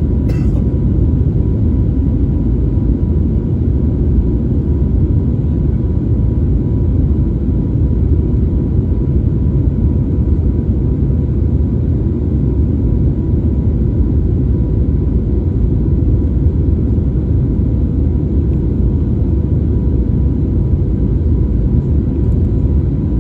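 Steady low rumble of a passenger aircraft's engines and airflow during the climb after takeoff, even throughout, with a faint steady hum above it and one brief click just after the start.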